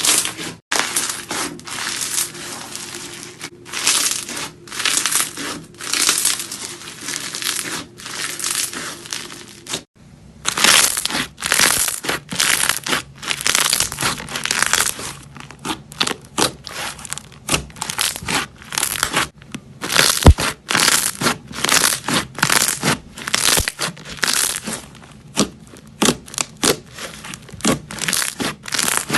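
Crunchy, crackly material being squeezed, crushed and pulled apart by hand, a fast run of crackles and crunches. About ten seconds in there is a brief break and then a new clip of similar crackling.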